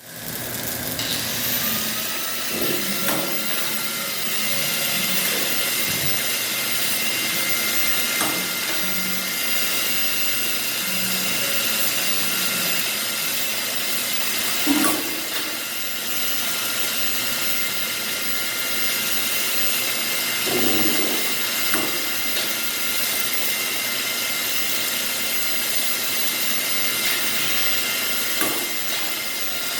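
Robotic welding cell at work: a steady hiss with a thin, constant whine over it and a few scattered knocks.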